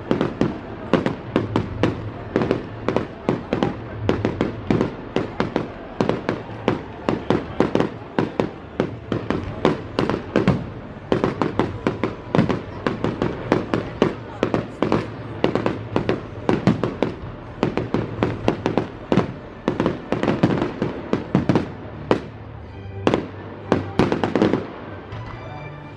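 Aerial fireworks bursting in a rapid barrage of bangs and crackles, several a second. The bursts die away near the end.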